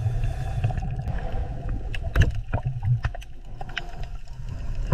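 Low, rumbling water-like sound with a few sharp clicks scattered through it, played as the sound of a leatherback turtle.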